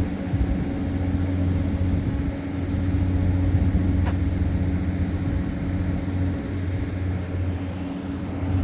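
A steady low machine drone with a constant hum, and a single sharp click about four seconds in.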